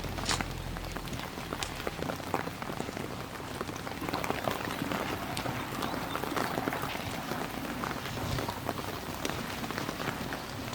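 Rain falling steadily, with many separate drops ticking as they strike a surface.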